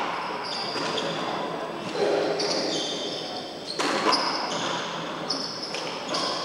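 A handball bouncing and smacking against the court a few times, echoing in the enclosed court, with sharp strikes about a second apart near the start and again about four seconds in. High thin whistling tones come and go between the strikes.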